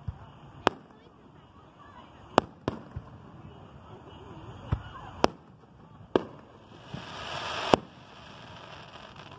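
Fireworks shells bursting in the sky: a string of about ten sharp bangs at uneven intervals. Near the end a hiss builds up and ends in the loudest bang.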